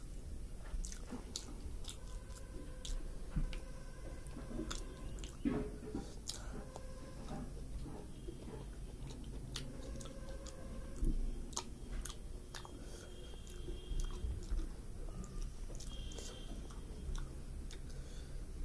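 A person chewing a mouthful of rice and curry close to the microphone, with many small wet clicks and smacks of the mouth.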